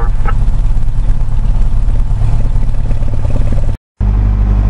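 Cessna 172SP's four-cylinder Lycoming engine and propeller running steadily, heard loud from inside the cockpit. The sound drops out completely for a moment near the end, then comes back with a slightly different pitch.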